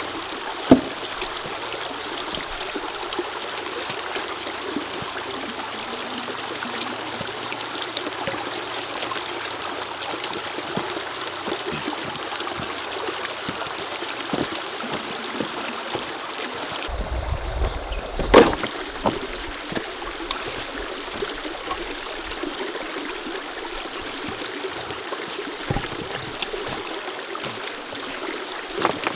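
Mountain stream running steadily. A sharp knock sounds near the start and another a little past the middle.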